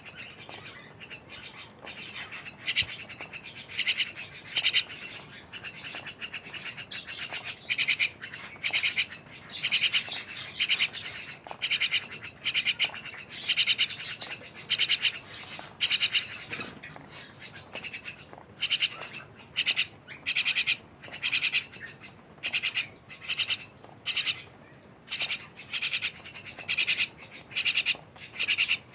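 Jalak (starling or myna) calling: short harsh, rasping calls repeated about once a second, in a long series.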